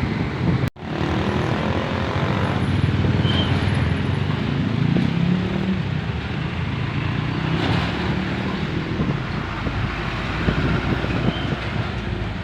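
Heavy truck's diesel engine running, with road and wind noise; the sound drops out briefly under a second in.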